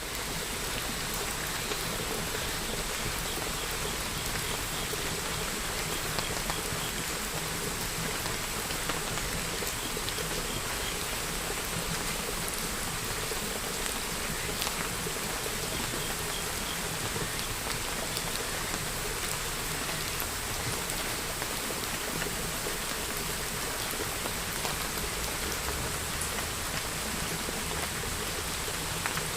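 Steady rain falling, a dense even patter of drops with a few individual drops ticking through it.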